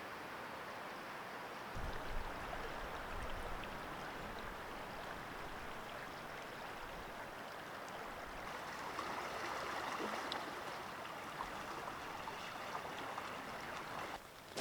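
Steady rushing outdoor noise with no distinct events, joined by a low rumble from about two seconds in that fades after a few seconds.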